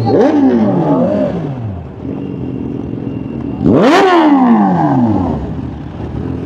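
Kawasaki superbike engine revved twice. A quick blip at the start, then a louder rev about four seconds in whose pitch shoots up and falls away.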